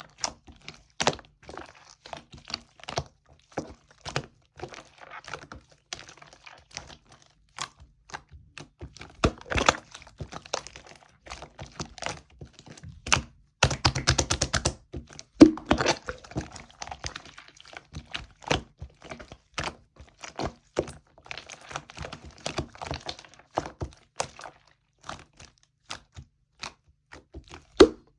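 Lime-green slime being squeezed and pressed by hand, making a fast, irregular stream of sharp clicks and pops that crowd together and grow loudest about halfway through.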